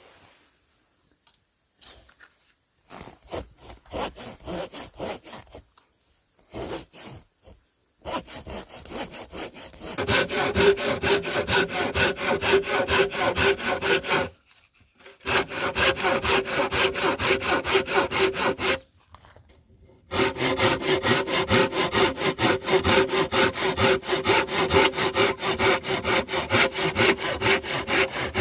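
Hand saw cutting through firewood: a few hesitant strokes at first, then fast, steady back-and-forth strokes that stop briefly twice.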